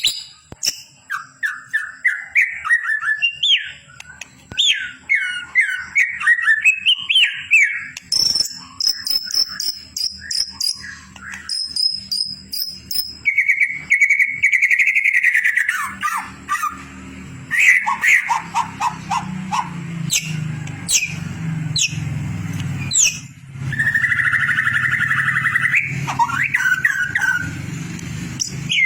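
White-rumped shama (murai batu) song: a continuous run of varied whistled phrases, quick rising notes and rapid trills, the kind of song played to train competition birds. From about halfway a steady low hum sits underneath.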